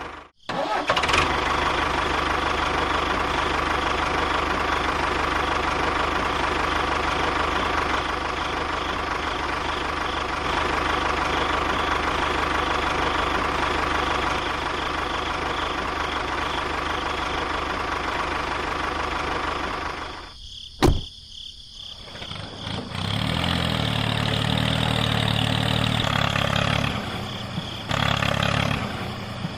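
A small motor running steadily with a constant hum. It cuts out about twenty seconds in, a single sharp click follows, and it starts again at a lower, heavier pitch.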